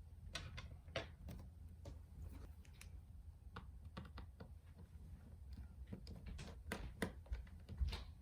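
Scattered light clicks and taps of small tools and parts being handled on a Nintendo Switch during disassembly, irregular and unevenly spaced, over a low steady hum. The loudest tap comes near the end.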